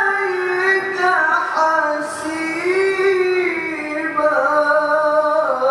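A Qur'an reciter's voice in tilawah style, drawing out one long melodic phrase with a wavering, ornamented pitch that rises in the middle and breaks off near the end.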